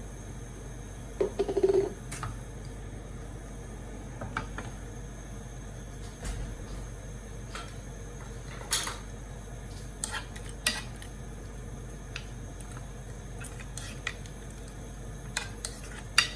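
Scattered clinks and taps of kitchen utensils against a pan and dishes while seafood is being seasoned. A brief cluster of louder knocks comes about a second in, then single taps every few seconds.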